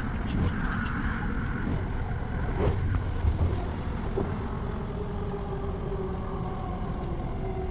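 Motor vehicle noise: a steady low rumble, with a faint steady hum coming in about four seconds in.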